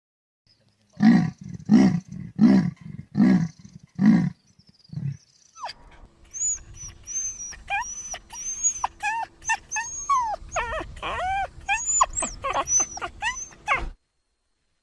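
Animal calls: a series of six low, rhythmic barking grunts about two-thirds of a second apart, then a busy run of high chirps and short gliding whistles that stops suddenly.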